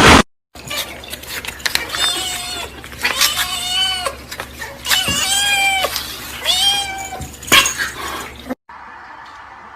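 Domestic cat meowing: four long, drawn-out meows, each rising and then falling in pitch, with a few sharp knocks in between.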